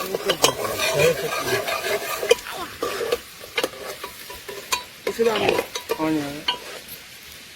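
Food sizzling in a pan while a utensil stirs it, with frequent sharp clicks and scrapes against the pan.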